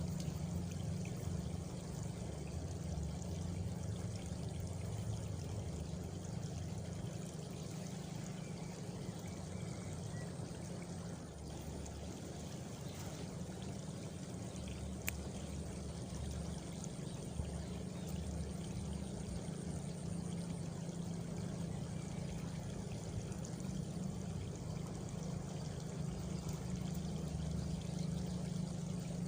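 Steady sound of flowing water, even and continuous, with a faint high cricket trill for a few seconds midway and a couple of small clicks.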